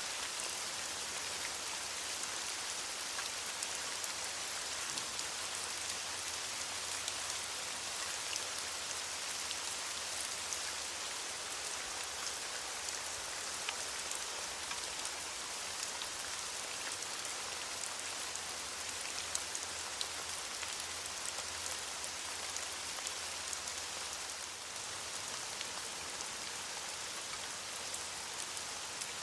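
Steady rain falling on leaves: an even hiss of rainfall with many separate drops ticking through it. It eases slightly about three-quarters of the way in.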